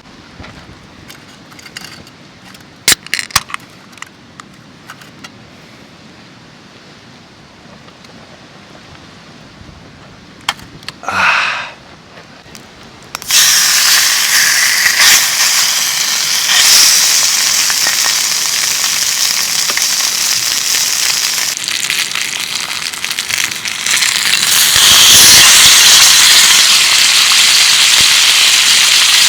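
A few light clicks and knocks of handling, then, about halfway through, food hitting a hot pan and sizzling loudly and steadily, growing louder near the end.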